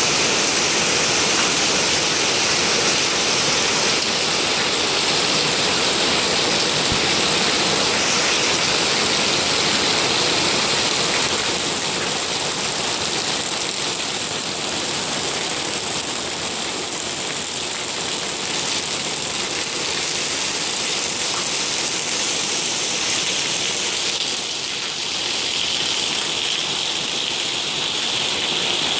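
Steady heavy rain falling, an even, unbroken hiss, with a higher-pitched hiss coming in near the end.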